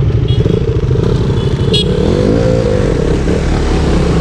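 Motorcycle engine running while riding, with a fast, steady low pulsing; about two seconds in the engine pitch rises and falls briefly as it revs. Two brief high chirps come through early on top of the engine.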